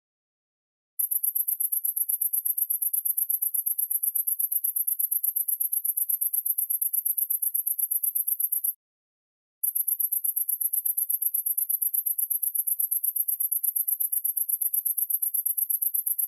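Cricket chirping: a high, rapid trill of even pulses that stops for about a second at the start and again briefly around nine seconds in.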